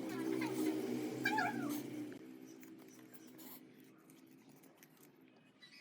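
A steady low machine hum that stops abruptly about two seconds in, with a short high squeal that bends up and down in pitch over it just before the stop.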